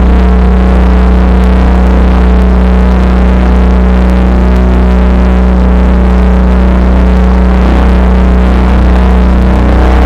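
Loud drone-noise music: deep bass tones and a few higher ones held steady without a break under a dense, churning wash of noise.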